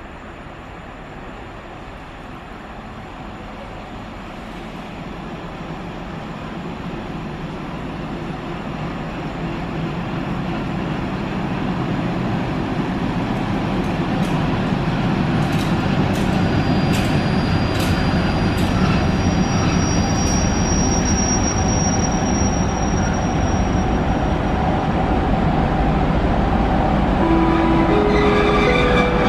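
Class 754 diesel-electric locomotive hauling a passenger train into the station, its engine and wheels growing steadily louder as it approaches. Sharp wheel clicks over the rail joints come midway, with a high-pitched brake squeal lasting a few seconds, and near the end a short rising sequence of tones sounds.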